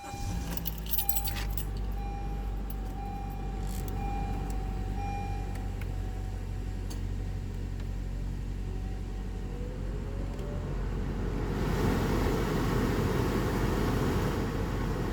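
Car engine starting and idling with a steady low hum, while a warning chime beeps about once a second for the first few seconds. About eleven seconds in, a loud, even rush of air joins in: the cabin heater and defroster fan blowing hard.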